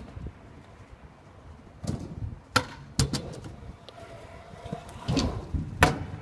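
Skateboard knocking and clacking on a skate park ramp as a skater attempts a trick: a handful of sharp hits, with wheels rolling between them.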